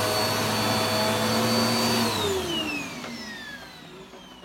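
Vacuum cleaner running steadily with a high motor whine, then switched off about two seconds in: the whine falls in pitch and fades as the motor spins down.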